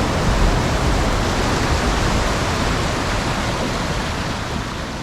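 Waterfall: a steady rush of falling water that slowly dies down over the last couple of seconds.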